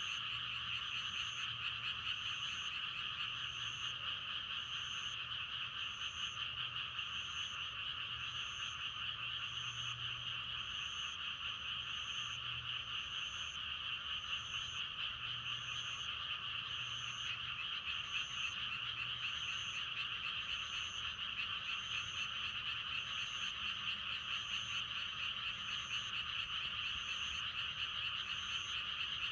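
A dense chorus of many frogs croaking continuously, the calls blending into one steady trill. A faint high-pitched note repeats slightly faster than once a second over it.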